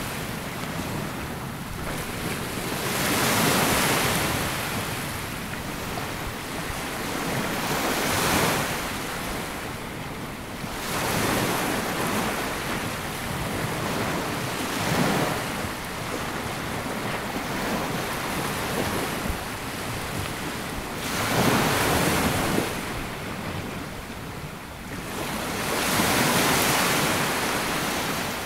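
Sea waves breaking and washing up a sandy beach, the surf swelling and easing about six times, every four to six seconds.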